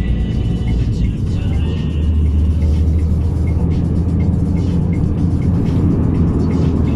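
A truck engine's steady low drone while driving, with music playing over it that has a regular ticking beat.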